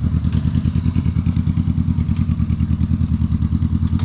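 Motorcycle engine running steadily at low, even revs with a fast, even pulsing beat and no change in pitch.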